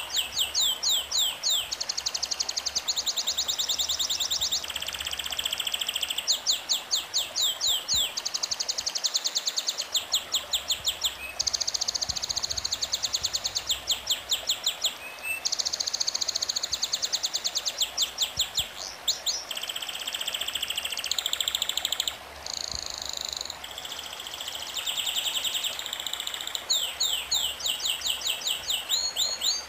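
Songbirds singing in fast trills of high, repeated chirps, in phrases a second or two long with short breaks between.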